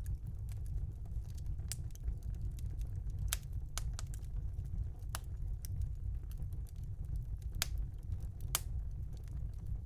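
Wood fire burning in a fireplace: sharp crackles and pops at irregular intervals over a steady low rumble.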